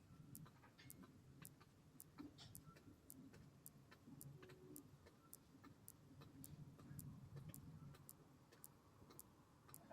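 Faint, even ticking, about two ticks a second, over a low rumble.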